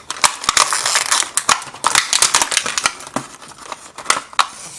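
Hands handling a boxed plastic toy and its packaging: a rapid, irregular run of clicks, snaps and crinkling.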